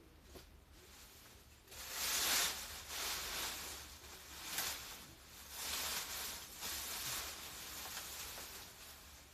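Leaves and brush rustling as garden debris is handled, in a run of noisy swells starting about two seconds in.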